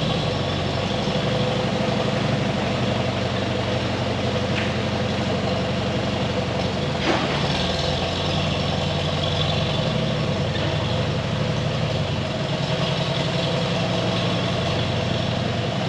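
Farm machinery engine running steadily, with a single sharp knock about seven seconds in.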